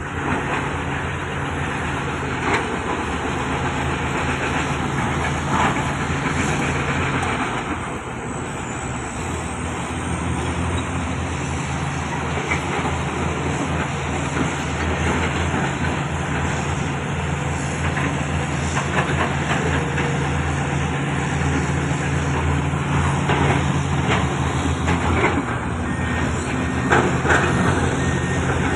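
Heavy diesel construction machinery running steadily under load, with a few sharp knocks and clanks. The engine note dips briefly about eight seconds in, then picks up again.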